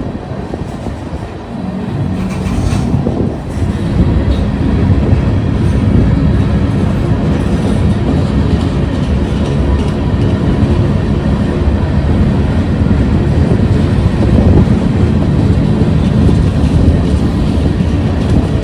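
A train passing by the track: its cars rolling along the rails, getting louder over the first few seconds and then running steadily.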